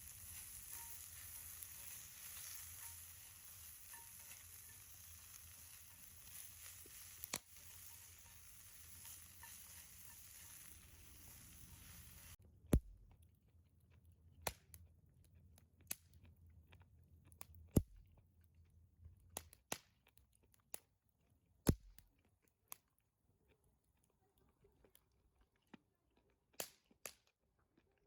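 Food sizzling in a pan for about twelve seconds, with one sharp click partway through. The sizzle stops abruptly, and a dozen or so scattered sharp clicks and knocks follow.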